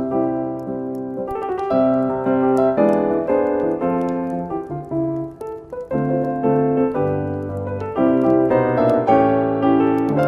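Slow solo piano music, note following note, with faint crackling ticks underneath from a fireplace.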